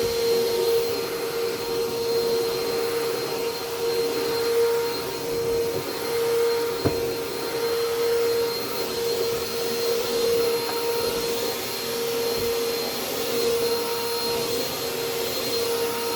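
Vacuum cleaner motor running steadily at full speed with a high, even whine. A single sharp click comes about seven seconds in.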